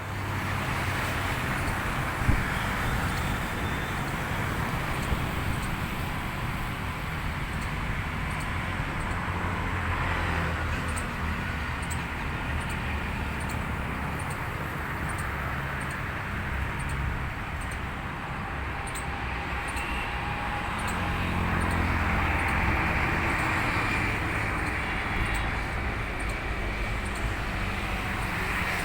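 Road traffic passing: a steady rumble of cars and other vehicles that swells as they go by, around ten seconds in and again from about twenty-one seconds.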